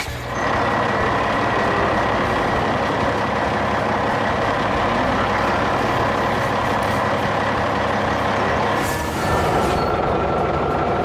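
Truck running steadily, with steady high tones over the engine noise; the tone changes to a slightly different pitch about nine seconds in.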